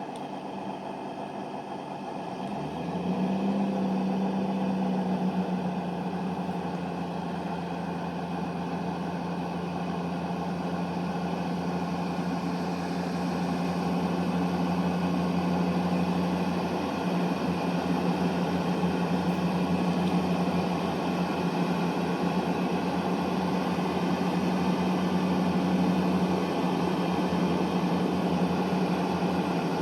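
Great Western Railway Class 166 diesel multiple unit departing. Its diesel engines open up about two and a half seconds in, rising in pitch, then hold a steady drone as the train pulls out.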